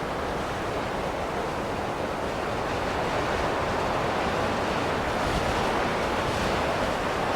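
Steady rushing wind of a snowstorm, growing slightly louder in the second half.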